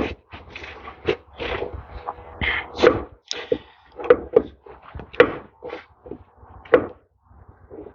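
Irregular knocks, clinks and scrapes of metal tractor parts and hand tools being worked and handled.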